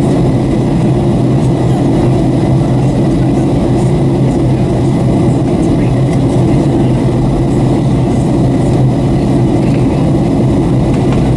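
Steady cabin drone of a Boeing 757-300 in flight on approach: engine and airflow noise heard from inside the passenger cabin, a constant low hum that does not change.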